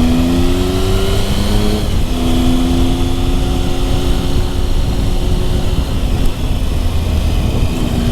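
Motorcycle engine pulling uphill, rising in pitch, then dropping at a gear change about two seconds in and running steadier after it. Wind rumble on the microphone sits underneath.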